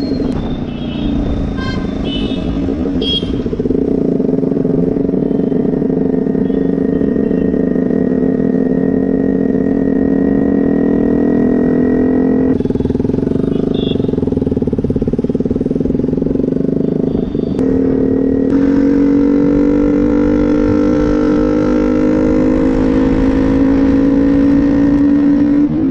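KTM 125 single-cylinder engine breathing through an aftermarket Akrapovic exhaust while the bike is ridden, its note holding steady and slowly climbing in pitch, with a short dip about two-thirds of the way through before it rises again.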